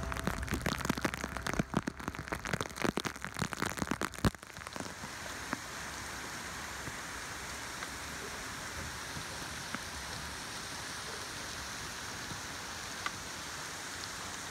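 Heavy tropical downpour on water, a steady even hiss. For about the first four seconds it is rougher, with many loud irregular knocks and crackles over the rain, which stop abruptly about four and a half seconds in.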